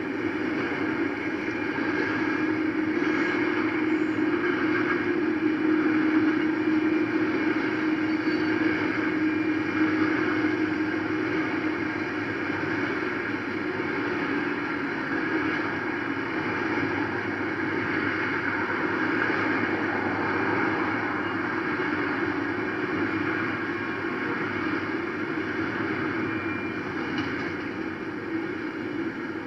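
Freight train rolling past a grade crossing: a steady, unbroken rumble and wheel noise from the passing cars.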